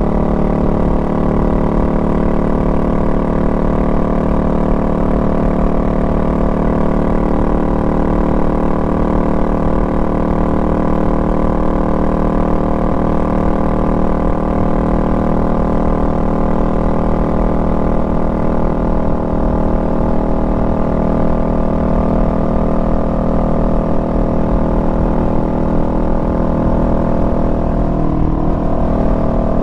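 Honda Rebel 500's parallel-twin engine running steadily at cruising speed, with a slight change in engine speed near the end.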